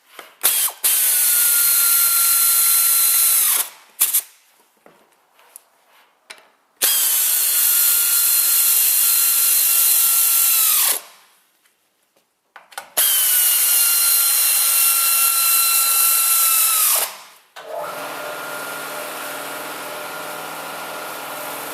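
Handheld power tool run in three bursts of about four seconds each, its whine sliding down as it is let off each time. It is followed near the end by a quieter, lower-pitched run of about five seconds.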